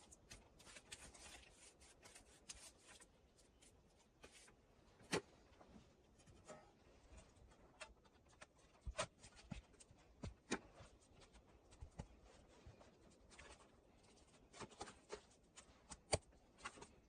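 Quiet handwork: scattered small clicks and taps with some faint rubbing, irregular and sparse, the sharpest tap about five seconds in and another near the end.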